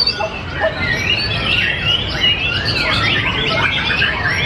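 White-rumped shama singing: a fast, unbroken run of varied whistled notes sweeping up and down.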